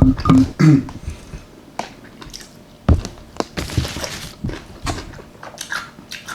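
A person chewing a mouthful of chicken parmesan, with wet mouth clicks and smacks. There is a brief hummed sound at the start and a short breathy hiss a little past halfway.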